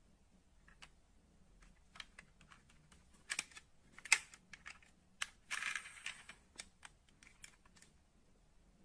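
Small die-cast model cars being handled: scattered light clicks and taps of metal and plastic parts, the loudest about four seconds in, with a brief scrape about five and a half seconds in.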